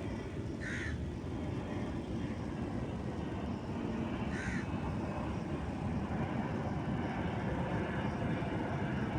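A crow cawing twice, about three and a half seconds apart, over a steady low background rumble.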